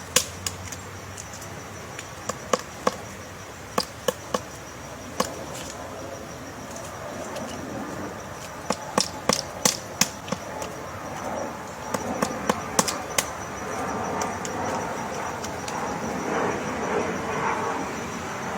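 Common flameback woodpecker pecking and chiselling at wood to dig out a nest hole: sharp, irregular taps, some single and some in quick clusters of two to four.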